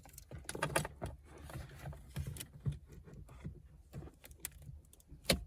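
Handling noises of a car head unit and its wiring harness plugs in the dash opening: irregular plastic clicks, rattles and scraping, with one sharp click near the end.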